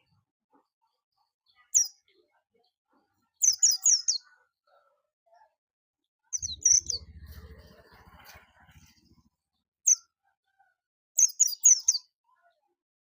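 White-eye (pleci) chirping in short, high, rapid bursts, about five clusters with pauses between. A brief low rumble sounds about six seconds in.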